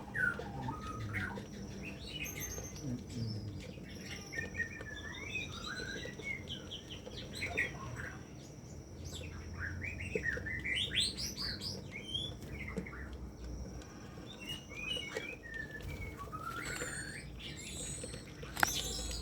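Birds chirping: many short, quick notes that rise and fall in pitch, over a faint steady high tone, with a sharp click near the end.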